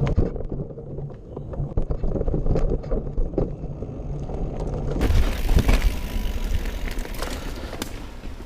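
Mountain bike riding over a rough dirt trail: tyres rumbling, with frequent knocks and rattles from the bike over bumps. The sound is muffled for about the first five seconds, then turns brighter and hissier.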